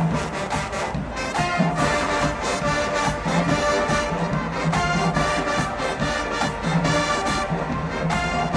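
Marching band playing: brass ensemble with sustained chords over a steady, regular drum beat.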